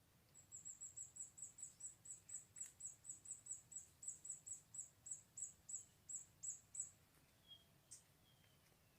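Faint, rapid series of very high-pitched chirps from a small bird, about three or four a second for some six seconds, then stopping. One or two fainter calls come near the end.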